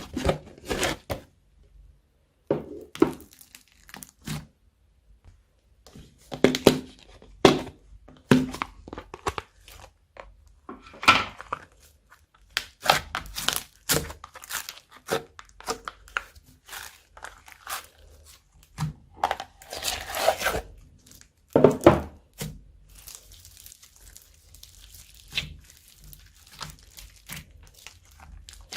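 Slime being squeezed, pressed and stretched by hand, making short, irregular crackles and pops with brief pauses between handfuls.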